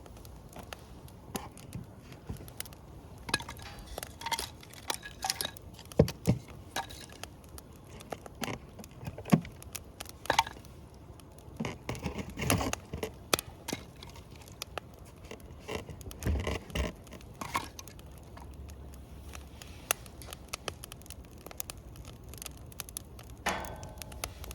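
Irregular clicks, knocks and light clatter of small objects being handled, with two sharper knocks about 6 and 9 seconds in and a short rustle near the end.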